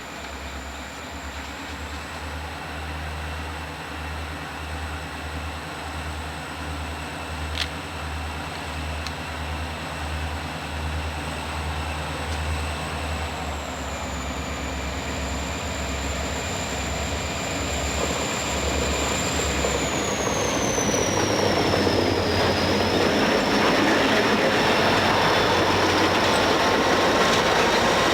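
Freight train on the move: a low diesel rumble early on gives way to a growing noise of wheels on rail that gets steadily louder toward the end.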